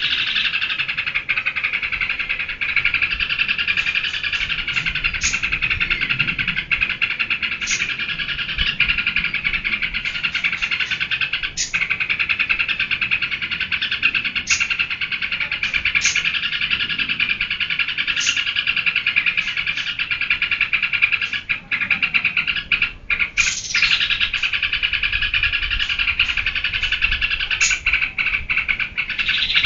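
Yellow-vented bulbul (trucukan) singing continuously in a dense, rapid chatter, the bird in full 'geber' song, with sharp high notes standing out every second or two and a brief lull a little past two-thirds of the way through.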